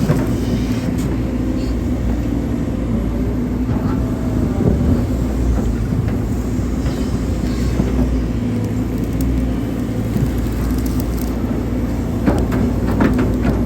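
Hydraulic excavator's diesel engine running steadily under digging load, with a brief rising and falling hydraulic whine about four seconds in and a run of knocks and scrapes near the end.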